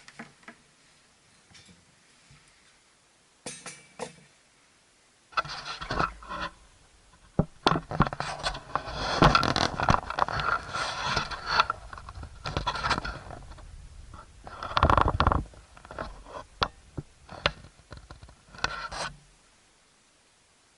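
Scraping and scratching handling noises in irregular bursts with sharp clicks, loudest around the middle. It stops a little before the end.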